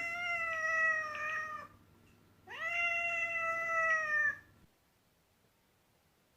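Domestic cat meowing: two long drawn-out meows about a second apart, the second sliding up in pitch at its start.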